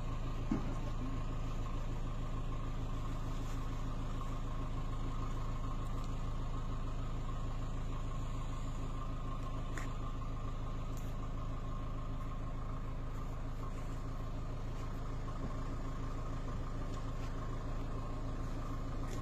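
Car engine idling steadily, a low even hum with a faint steady higher tone over it.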